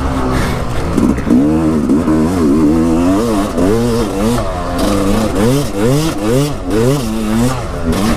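Dirt bike engine ridden on a trail, the throttle worked on and off so the revs rise and fall over and over, about every three-quarters of a second.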